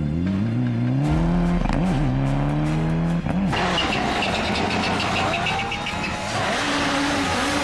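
Rally car engine accelerating hard, its note climbing with two brief dips at gear changes. About three and a half seconds in it cuts abruptly to a steadier rushing noise with a fainter engine note.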